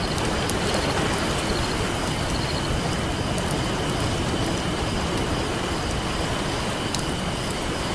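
Campfire crackling with scattered sharp pops over a steady wash of ocean surf.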